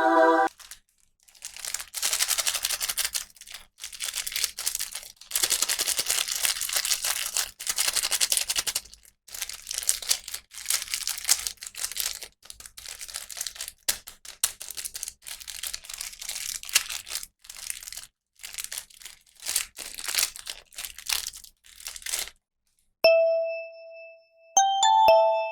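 Plastic packaging being crinkled and torn open in uneven bursts with short pauses, then a few clear chiming notes near the end.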